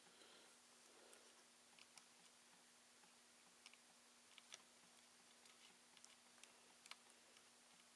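Near silence with a faint steady hum and a few scattered small clicks and ticks from handling small parts of the opened laptop.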